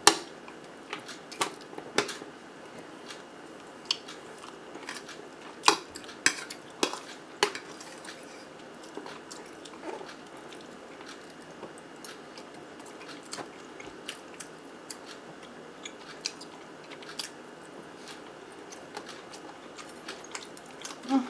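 Close-up eating sounds: cutlery clicking and scraping on a plate, with soft chewing. The sharp clicks come thick in the first eight seconds and sparser after.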